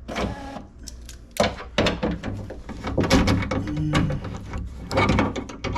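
A run of sharp clicks, knocks and rattles of metal parts and tools being handled, with a brief scraping burst at the start.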